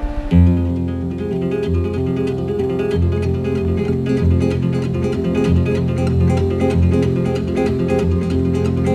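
Acoustic guitar music: a rapid, steady picked pattern over low bass notes. It comes in sharply just after the start, cutting off a chiming mallet-percussion passage.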